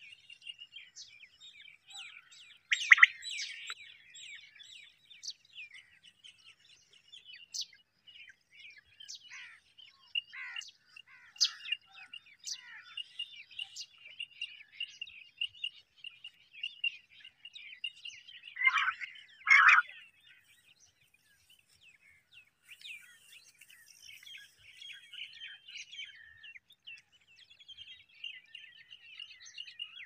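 Small birds chirping and twittering almost without pause, with a few louder, fuller calls about three seconds in and again around nineteen to twenty seconds in.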